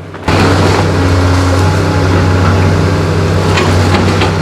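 Engine of heavy demolition machinery running loudly and steadily, starting abruptly just after the start, with a few sharp cracks near the end.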